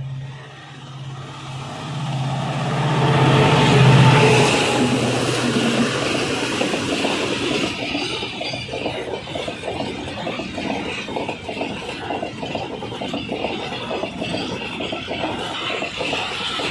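Diesel locomotive hauling a freight train passes close by: its engine drone grows to its loudest about four seconds in. Then the freight wagons roll past with a steady rhythmic clatter of wheels on the rails.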